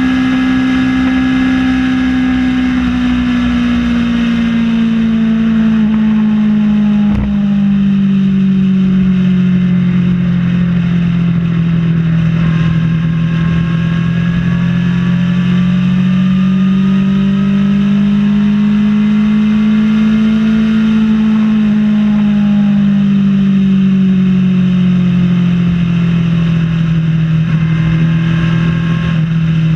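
Kawasaki ZX-6R inline-four sport-bike engine running under way at highway speed. Its note slowly falls, climbs again about two-thirds of the way through, then eases off. There is a single short knock about 7 seconds in.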